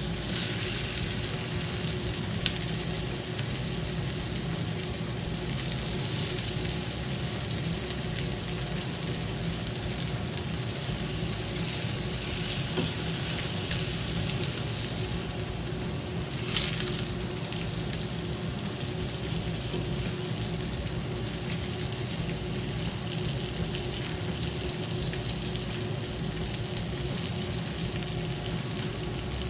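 Breaded chicken breasts frying in oil in a cast-iron skillet, a steady sizzle. A small click comes a few seconds in, and the sizzle briefly flares up about 16 seconds in.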